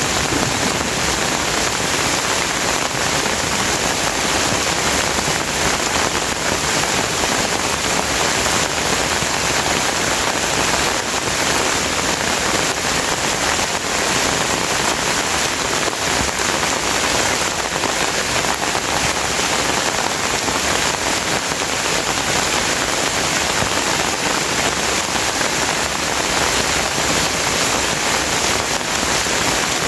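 Steady heavy rain falling and pattering on surfaces, an even hiss that does not let up.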